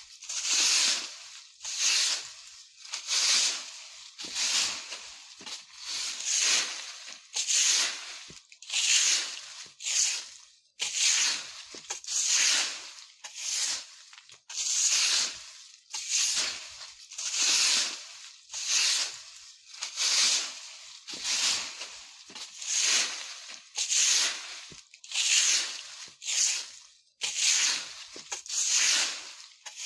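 Broom sweeping dry leaves on the ground: steady, even strokes about one a second, each a rustling swish of bristles and leaves.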